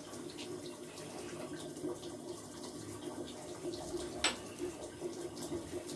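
Steady hiss with a low hum, and one sharp click about four seconds in as small shower-valve parts are handled.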